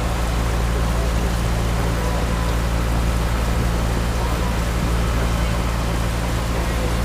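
Boat engine running steadily, a low drone under a constant hiss, heard from aboard.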